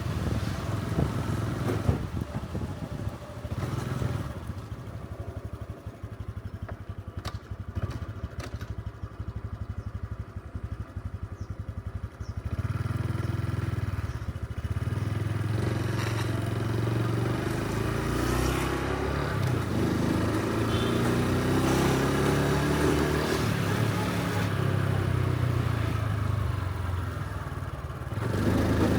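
Honda Super Cub C125's single-cylinder engine idling with a pulsing chug, then pulling away about twelve seconds in and running on, its pitch rising and falling as it speeds up and changes gear.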